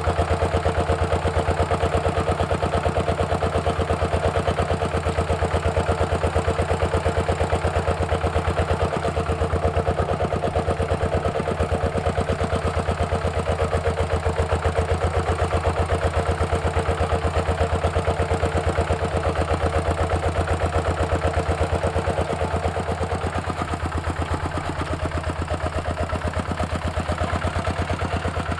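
Walking tractor's single-cylinder diesel engine running steadily with a rapid, even chug. About 23 seconds in, a steady whine within the sound stops and the sound gets slightly quieter.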